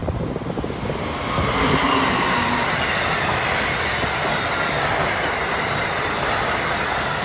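Amtrak Acela Express electric trainset passing close by at speed: a steady rush of wheels on rail with a faint whine, swelling about a second in as the cars go by.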